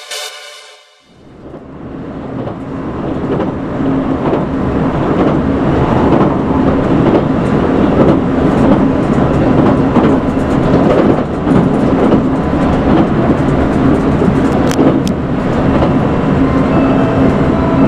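Cabin running noise of a JR Shikoku 8000 series electric train: a steady rumble with a low hum, fading in about a second in and then holding steady.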